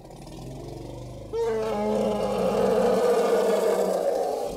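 Asian elephant calling: a quieter low rumble at first, then about a second and a half in, a loud call starts suddenly, rising in pitch at first, and carries on to the end.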